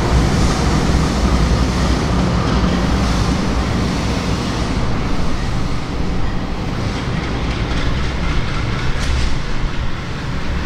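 Diesel-electric freight locomotives running with a steady low engine rumble, together with the noise of the train rolling over the rails. The sound eases slightly near the end.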